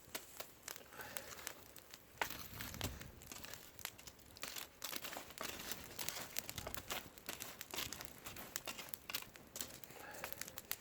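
Sweet potatoes being pushed into burning charcoal: embers crunching and shifting, with dense, irregular crackling clicks.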